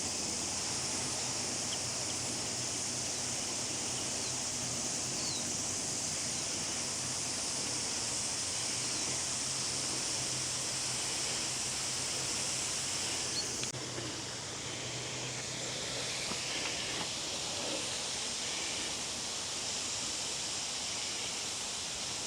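Steady high-pitched insect buzzing in bush, with a faint low hum beneath. The buzzing drops off suddenly about fourteen seconds in.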